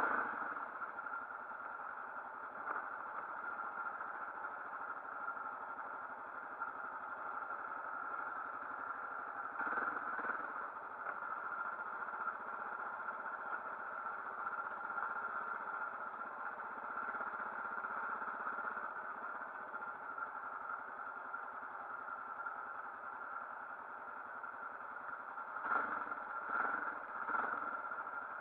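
Motorcycle engine running steadily, with a few short louder moments about a third of the way in and again near the end.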